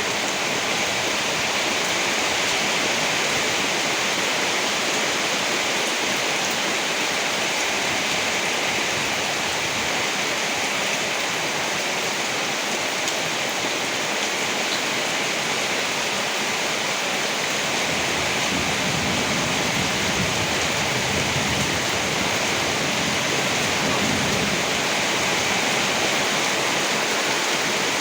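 Heavy rain falling in a steady, dense hiss. Past the middle a low rumble swells and fades over several seconds.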